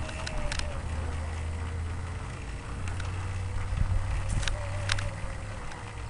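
A 48-volt electric motorcycle riding along, its motor giving a faint whine that sinks slowly in pitch over a low steady rumble of wind and road noise, with a few sharp clicks and rattles.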